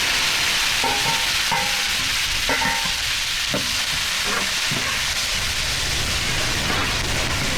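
Food frying in a hot pan: a steady sizzle that holds level throughout.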